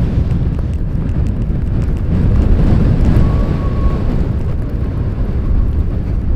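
Strong blizzard wind buffeting the microphone: a loud, gusting low rumble that swells for a couple of seconds in the middle.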